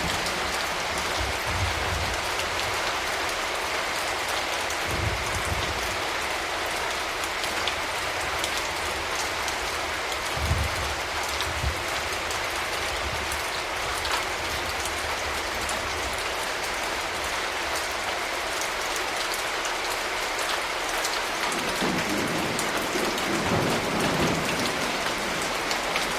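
Steady rain falling, with scattered drops ticking against a surface. Low thunder rumbles come in several times, the longest and strongest near the end.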